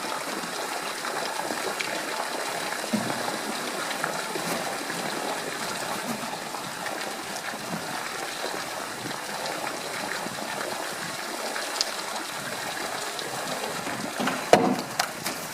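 Steady rushing of running water, with a sharp knock near the end.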